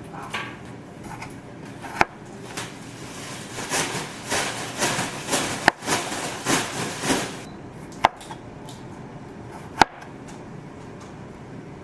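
Kitchen handling sounds: a few separate sharp knocks, and in the middle a run of quick scraping, rustling strokes.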